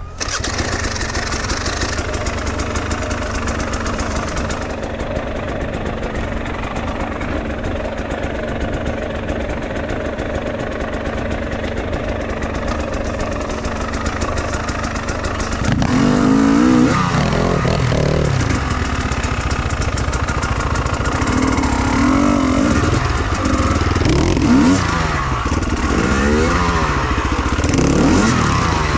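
Enduro motorcycle engine running steadily, then from about halfway through revving up and down repeatedly as the bike is ridden.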